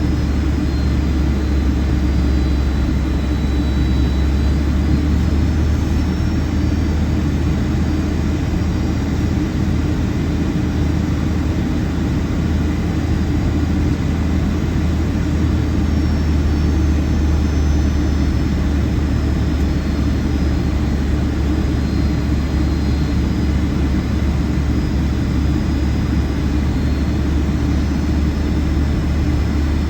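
Steady cabin noise of a Boeing 757-200 airliner in flight, heard from inside the cabin: a low drone of engines and airflow, with faint high whining tones that drift slowly up and down in pitch.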